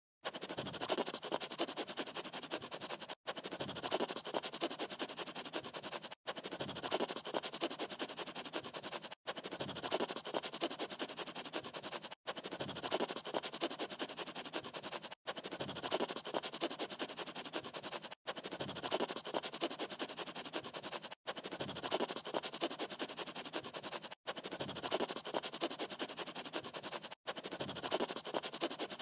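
A rough hissing noise, looped: the same roughly three-second stretch of sound repeats about ten times, with a short dropout between each repeat.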